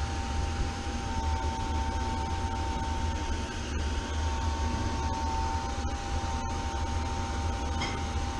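Running machinery, likely refrigeration or air-handling equipment: a steady low hum with fan-like noise and a constant high tone, plus a few faint clicks.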